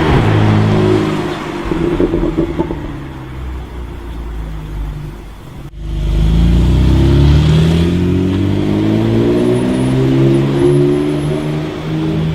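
A supercar engine revving and accelerating, its pitch rising more than once. About six seconds in the sound cuts off abruptly and a second engine run begins.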